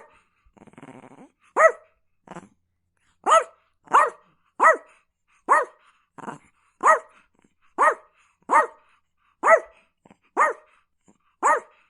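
Chihuahua barking, about a dozen sharp, high-pitched yaps at a steady pace of roughly one per second, with a short raspy growl about a second in.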